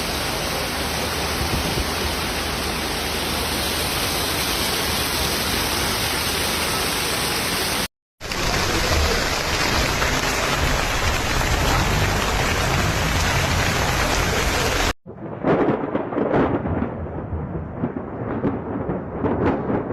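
Heavy rainstorm: a steady, loud rush of rain and running water, broken by two abrupt cuts. After the second cut, about fifteen seconds in, comes a duller rush that surges in irregular gusts.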